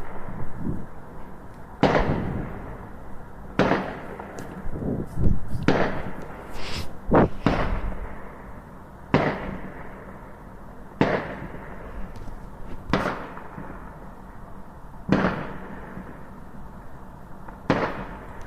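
Fireworks going off: a sharp bang every one to two seconds, about ten in all, each trailing off briefly.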